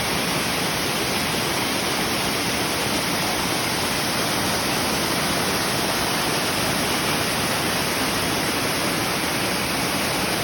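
Waterfall pouring with great force, heard up close as a steady, loud rush of water.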